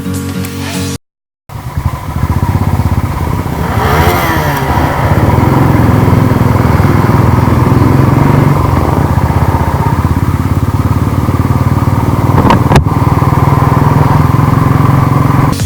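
Royal Enfield Thunderbird 350's single-cylinder engine running while the motorcycle is ridden, with the engine note rising and falling about three seconds in, then running steadily. A single sharp click near the end.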